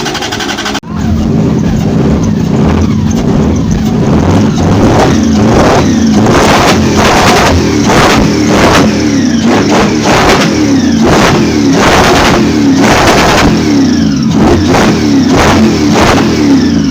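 A drift car's engine being revved hard over and over, its pitch rising and falling many times, with repeated bursts of noise from the spinning car. There is a sudden cut just under a second in.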